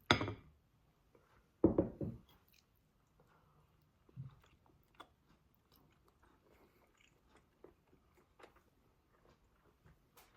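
A person biting into food and chewing: two loud, crunchy bites in the first two seconds, then quieter, irregular chewing clicks.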